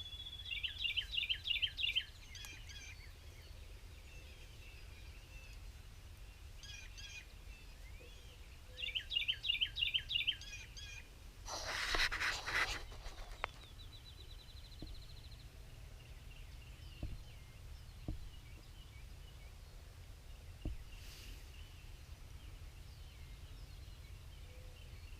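Two loud bursts of rapid, repeated bird notes, each about a second and a half long, the first near the start and the second about nine seconds later, over quiet outdoor ambience with scattered faint bird calls. A brief rushing noise comes just after the second burst.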